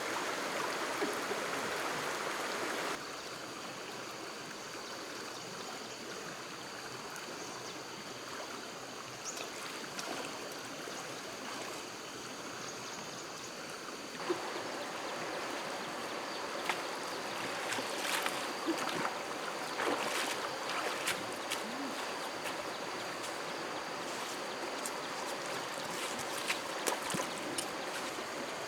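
Flowing stream water, a steady rushing that changes level abruptly twice, dropping about three seconds in and rising again about halfway through. Scattered small clicks and knocks come through in the second half.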